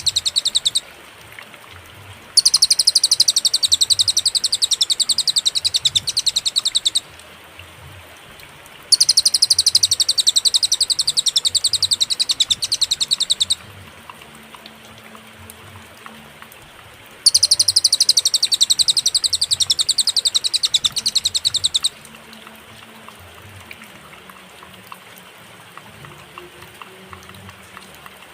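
Cililin song: rapid trills of evenly repeated high-pitched notes, in bouts of about four and a half seconds with pauses of two to four seconds between them. One bout ends just after the start, three full bouts follow, and a longer pause comes near the end.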